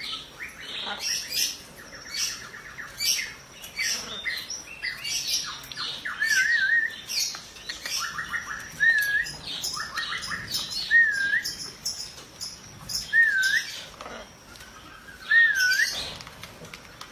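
Birds calling: many sharp chirps and squawks throughout, and from about six seconds in a short warbling whistle repeated every couple of seconds.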